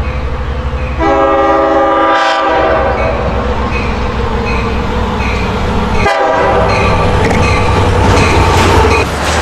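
Long Island Rail Road electric train's multi-tone horn sounding two long blasts, the second longer, over the steady rumble and clickety-clack of the train rolling past a grade crossing.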